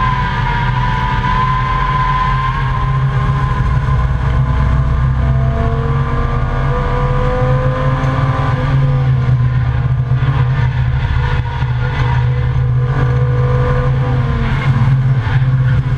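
Volvo 855 race car's five-cylinder engine pulling hard, heard from inside the cabin, over heavy road and wind rumble. The engine note climbs slowly, falls back a little past halfway, then holds steady.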